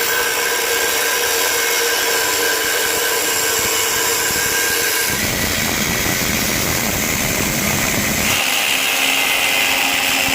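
Angle grinder running and cutting into the steel shell of an MBRP exhaust muffler, a steady loud whine with grinding noise. The tone of the cut shifts about five seconds in and again about eight seconds in.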